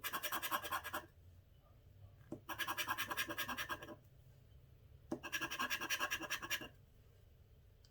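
A coin scraping the coating off a scratch-off lottery ticket in three quick bursts of rapid back-and-forth strokes, with short pauses between them.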